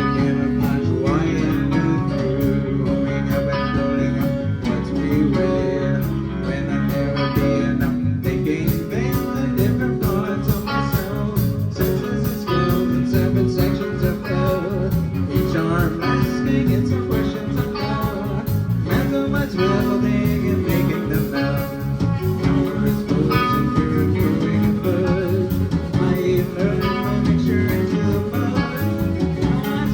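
Live band playing a guitar-led song over a steady drum beat.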